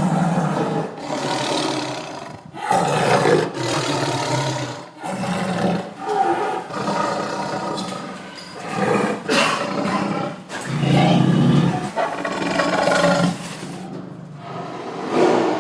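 A large wild animal roaring again and again, in about a dozen rough calls of a second or so each with short breaks between them.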